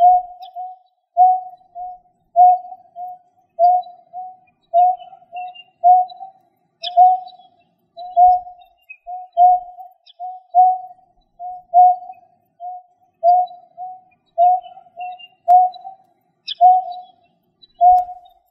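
A bird repeating a low, hooting two-part call about once a second, a stronger note followed by a softer one, with faint higher chirps in the background.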